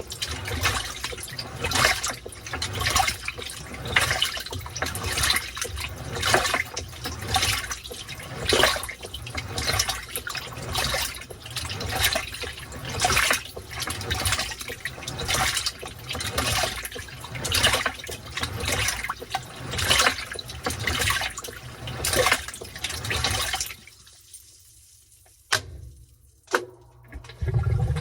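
Washing machine agitating a load in water during the wash cycle: rhythmic sloshing surges, roughly one a second. About 24 s in the agitation stops for a pause broken by a couple of sharp clicks, then starts again near the end.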